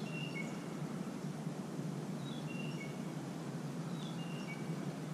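A songbird repeating a short phrase of a few high notes, each lower than the last, three times about two seconds apart, over a steady low outdoor background noise.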